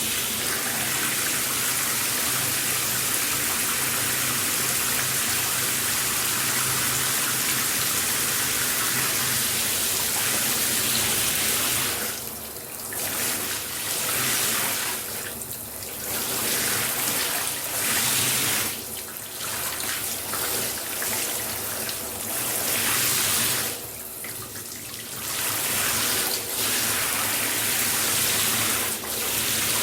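Shower running, the spray making a steady hiss of water. In the second half the hiss dips several times for a second or so and comes back.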